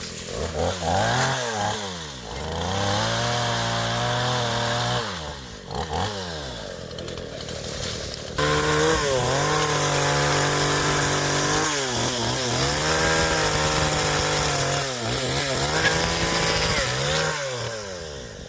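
Chainsaw running at high throttle through several cuts: its engine pitch sags and holds steady while the chain is in the wood, then swings up and down as the throttle is worked between cuts.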